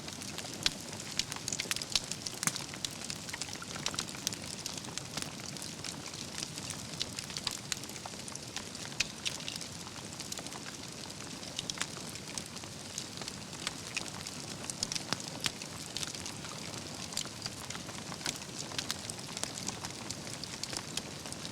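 Wood fire burning: a steady low rush with many irregular sharp crackles and pops from the burning logs.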